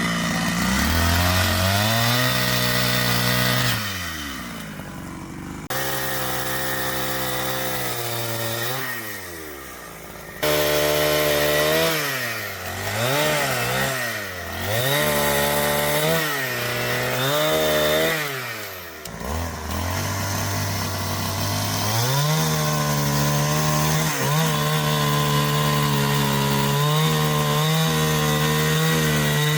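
Two-stroke chainsaw revving up and down repeatedly, dropping back to idle in between, then held at full throttle for about seven seconds near the end before easing off.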